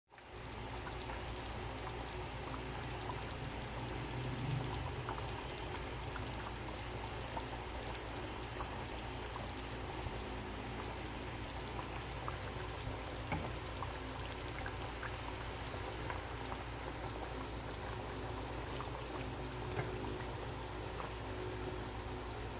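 Food cooking in a hot pan: a steady sizzling crackle with small scattered pops, over a low steady hum.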